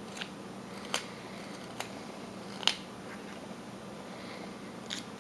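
Carving knife slicing small chips off a wooden figure: five short, sharp cuts at uneven intervals, the loudest about two and a half seconds in.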